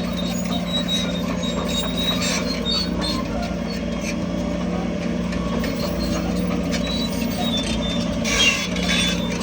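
Heavy diesel construction machinery running steadily, with scattered high metallic squeaks and clinks over the engine drone.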